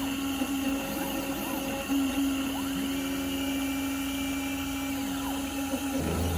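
Small portable CNC carving machine running: a steady motor tone that breaks off and shifts pitch briefly now and then, and a deeper hum comes in near the end.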